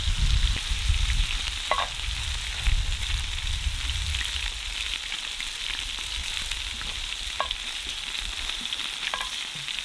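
Steak and mushrooms sizzling steadily in butter and olive oil in a cast-iron skillet over campfire coals. There is low rumbling in the first few seconds, and a few light clicks come as the meat is handled.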